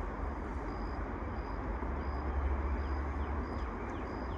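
Outdoor ambience: a steady low rumble, with a faint high-pitched chirp repeating evenly a little more than once a second.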